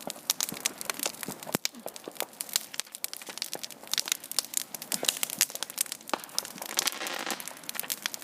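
Bonfire of burning paper and cardboard crackling, a fast, irregular run of snaps and pops that grows denser about seven seconds in.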